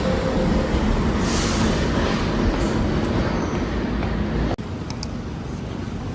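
New York City subway train running, a loud steady rumble with a short hiss about a second in. The sound cuts off abruptly about four and a half seconds in, leaving a quieter background noise.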